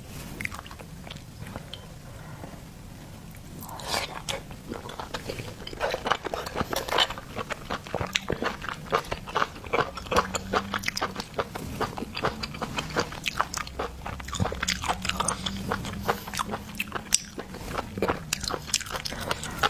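Close-miked chewing and biting of seafood, with dense crunching clicks starting about four seconds in.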